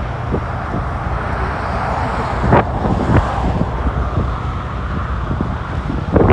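Wind buffeting the microphone: a steady low rumble, with a couple of brief knocks about two and a half and three seconds in.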